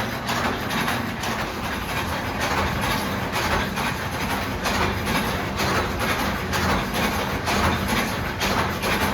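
Heavy factory machinery running with a dense, steady din and a regular clank about twice a second.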